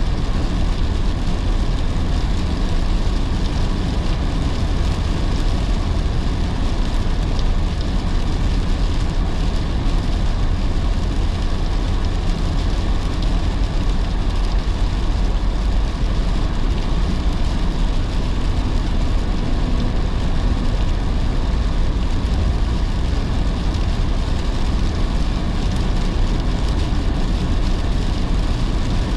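Steady road and tyre noise of a car driving on a rain-soaked road, strongest in the low end, with rain falling on the car.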